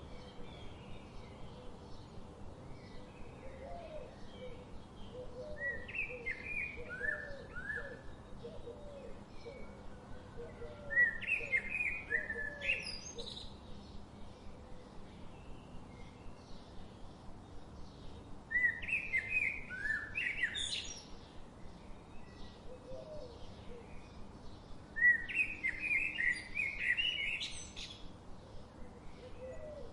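A songbird singing a short phrase of quick chirps and rising whistles about every seven seconds, four times, over a steady faint background. Through the first half a lower run of quick repeated notes goes on underneath.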